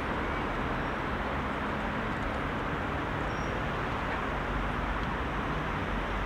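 Steady drone of heavy rush-hour city traffic: many cars passing with a constant rumble and tyre noise.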